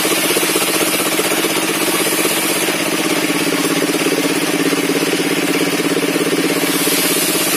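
Engine-driven sawmill table circular saw running steadily, with a fast, even pulsing beat.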